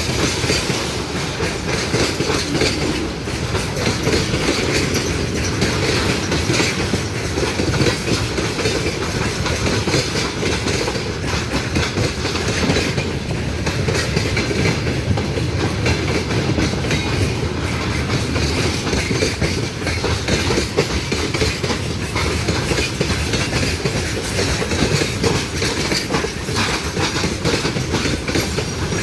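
A train rolling past on the track, with a steady rumble and the continuous clatter of railroad car wheels over the rails.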